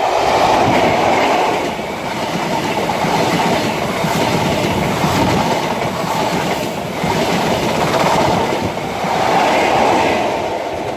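InterCity 125 high-speed train passing at speed: the leading Class 43 diesel power car goes by loudest at the start, then the coaches with wheels clattering on the rails, and the rear power car swells up again near the end.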